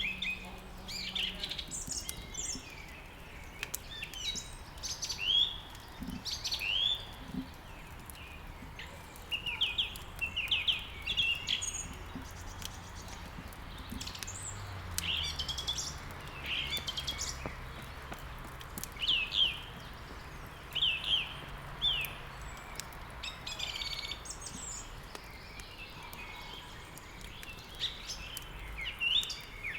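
Small songbirds chirping and singing in many short, quick phrases, one after another throughout. Faint clicks, like firewood crackling in a fireplace, run underneath.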